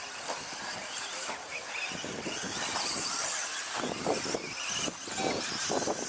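Radio-controlled stadium trucks racing around a track, their motors whining up and down in pitch as they accelerate and brake, with tyre and chassis noise getting louder from about two seconds in.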